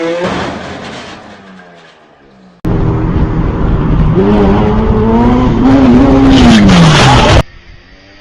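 A vehicle engine fades away. After an abrupt cut, a loud engine runs hard, its pitch climbing and then dropping, and it cuts off suddenly about seven seconds in.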